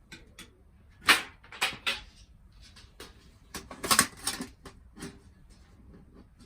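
A string of irregular knocks and clacks of hard objects, a dozen or so, loudest about a second in and around four seconds in.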